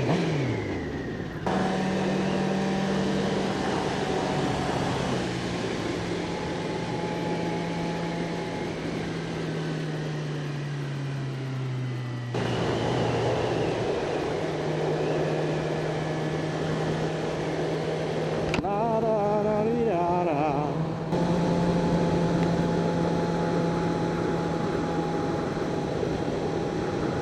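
600 cc inline-four sport bike engine running at a steady cruise under heavy wind rush. Its note sinks slowly as the bike eases off, then picks up again, and it jumps abruptly a few times where the footage is cut. Around two-thirds of the way through the engine note wavers briefly.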